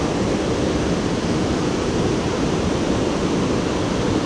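Water pouring over a dam's spillway, a man-made waterfall, making a steady rushing noise.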